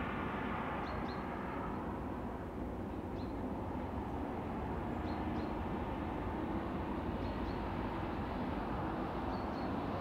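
Low, steady rumble of a train receding down the line, its higher tones dying away in the first couple of seconds. Short high bird chirps come about every two seconds.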